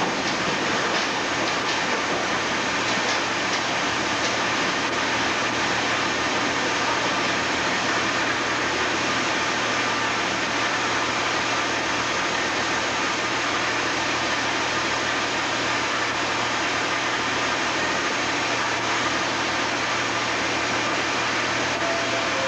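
A train in the station making a steady, even rushing noise with a faint hum, unchanging throughout.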